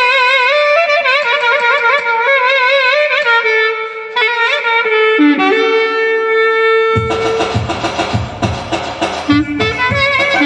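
Clarinet playing a solo melody full of trills and wide vibrato. About seven seconds in, a rhythmic backing with a steady beat comes in under it.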